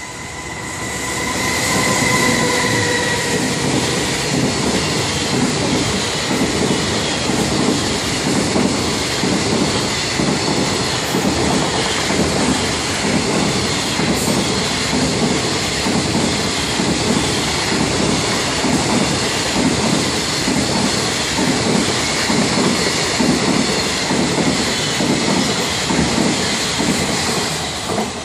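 A container freight train passing at speed: its wagons' wheels clatter over the rail joints in a steady, repeating rhythm that lasts for most of the passage and drops away near the end. Over the first few seconds a held tone sounds, dipping slightly in pitch as the train comes by.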